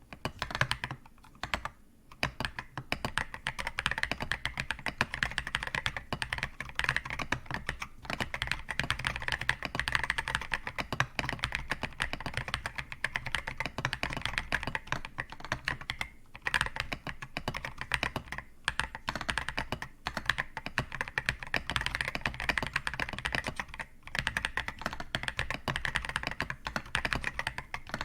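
Mechanical keyboard with non-clicky switches typed on quickly and continuously, a dense run of keystrokes with a few short pauses.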